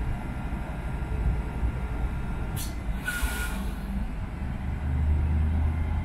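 GWR Intercity Express Train rumbling at crawling speed as it draws into the platform. About three seconds in there is a short hiss of air with a brief squeal, typical of the train's brakes, and near the end the low engine hum grows louder.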